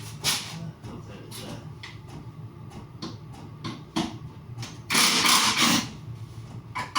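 Parts being handled and taken apart: scattered knocks and clicks, then a harsh scraping rasp lasting about a second, around five seconds in.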